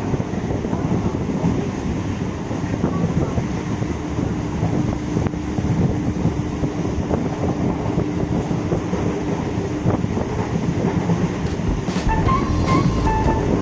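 Eastern Railway EMU local train running, a steady rumble of wheels on track with some clickety-clack, heard on board. A steady hum sounds through the middle, and a few short high squeaks and clinks come near the end.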